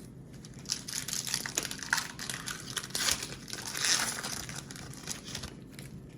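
Crinkling and rustling of a trading card pack's wrapper being crumpled and torn open by hand, in irregular crackly bursts that die down near the end.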